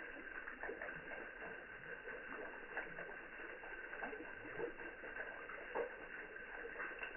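Water trickling down a mossy wall, with irregular small drips and plinks over a steady faint trickle.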